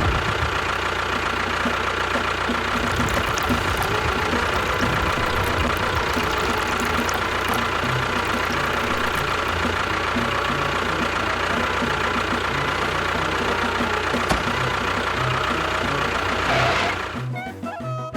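A small motor running steadily with a whirring, mechanical noise and a faint steady whine. It cuts off about 17 seconds in, and music takes over.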